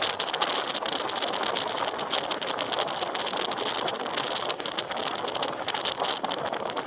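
Wind rushing over the microphone and road noise from a moving bike, a steady rushing hiss broken by many short crackles and rattles.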